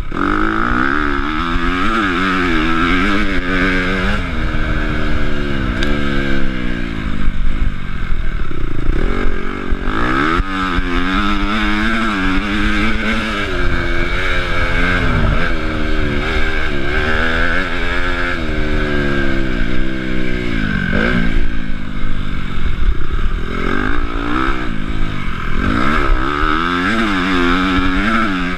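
Honda CRF250 four-stroke single-cylinder motocross engine under hard riding, its pitch climbing and falling again and again as the throttle is opened and chopped, with sharper drops about a third of the way in, two-thirds of the way in and at the end.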